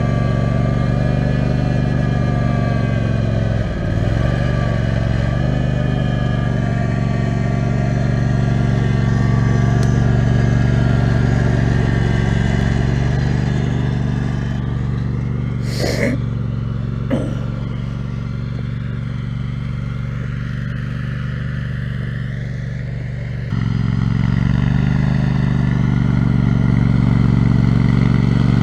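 Riding mower's Kohler 18 HP Command engine running, with a brief dip in pitch about four seconds in. Two sharp clicks come around the middle, the engine runs quieter for several seconds, then suddenly comes back up louder.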